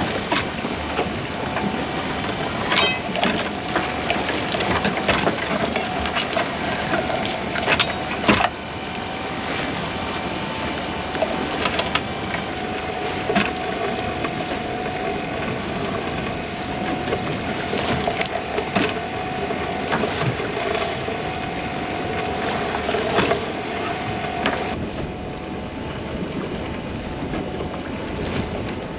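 Small boat at sea: a steady mechanical whine over a hiss of running noise, with scattered sharp knocks and clatter on board. The whine stops suddenly near the end.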